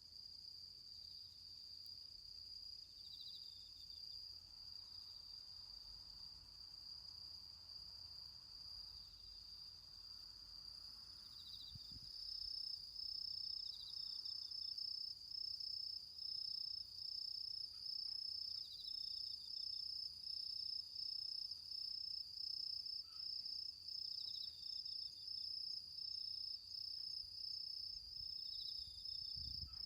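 Autumn crickets and other insects singing: a steady high trill that gets louder about twelve seconds in and takes on a regular pulse of about once a second, with a second insect's short chirping trills every few seconds beneath it.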